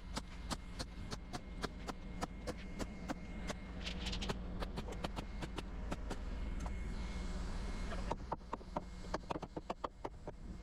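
Sharp knocks in quick runs, about three a second, over a steady low rumble, with a brief hiss about four seconds in.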